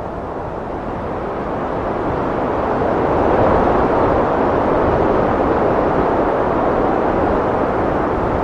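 Heavy wind blowing in a steady rush that swells to its strongest about three seconds in and holds there.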